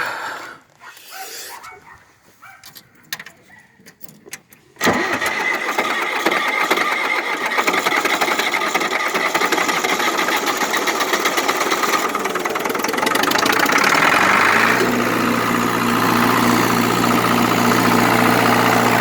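Ford New Holland 5030 tractor's diesel engine being cranked over by a new starter motor. The cranking starts suddenly about five seconds in, and after about ten seconds of cranking the engine catches and settles into a steady idle.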